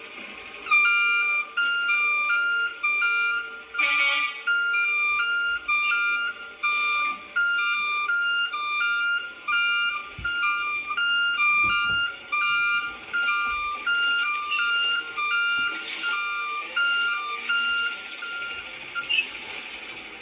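A simple electronic chime melody in short, evenly paced notes, stopping shortly before the end. Two brief noises cut in, about 4 and 16 seconds in.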